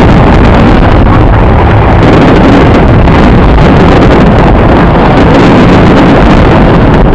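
Fireworks show heard as a continuous heavy rumble, the shell bursts running together with no separate bangs, overloading and distorting the microphone.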